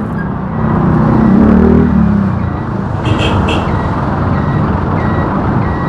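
Road traffic running past, with a motor vehicle's engine rising and then falling in pitch as it passes, about a second in, over steady road and wind noise. Two short high chirps come about halfway through.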